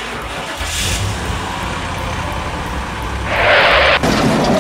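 Sound effect of a car engine running and rumbling, dubbed over toy vehicles. About three seconds in there is a louder burst of hiss, and the last half second is louder still.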